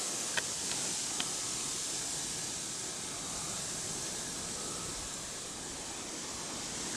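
Steady outdoor hiss of a forest path, like wind in foliage or distant running water, with a couple of faint clicks in the first second or so.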